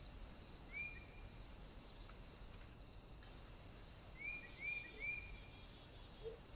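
A small bird at a feeder gives short whistled call notes, each sliding up and then holding: one just under a second in, then three in quick succession around the middle. A steady, faintly pulsing high-pitched buzz runs underneath, with a faint soft knock near the end.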